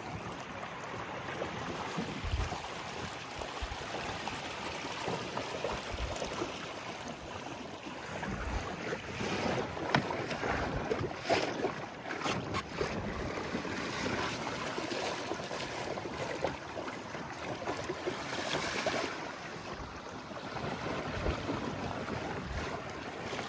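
Water splashing and lapping against a sailing dinghy's hull as it moves under sail, with wind buffeting the microphone. The splashing grows louder and choppier about ten to thirteen seconds in and again near nineteen seconds.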